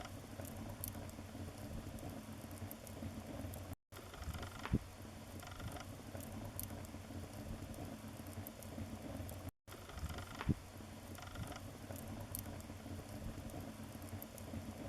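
Wood fire crackling steadily in a fireplace, with two sharp louder pops, one near the middle and one about two-thirds of the way through. The sound cuts out for a split second twice.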